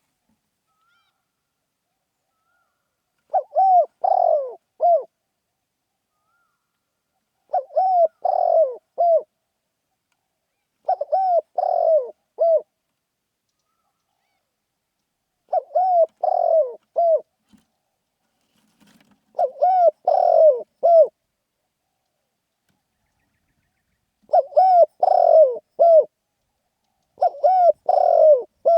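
Spotted dove cooing: seven short phrases, each of several coos, about every four seconds.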